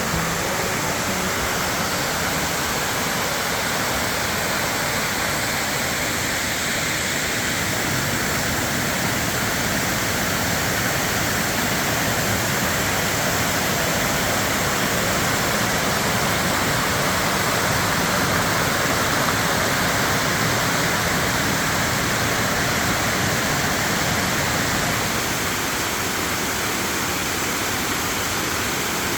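Dokuzak Waterfall's wide curtain of water pouring over rocks into its pool: a steady, unbroken rush of falling water.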